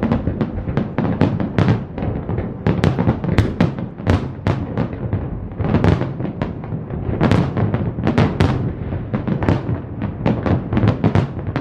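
A large fireworks display: a dense, unbroken barrage of bangs and crackles over heavy low booms, several bursts a second.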